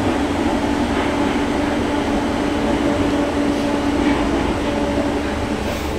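Interior noise of an unrefurbished Merseyrail electric train carriage: a steady low rumble with a constant, even hum.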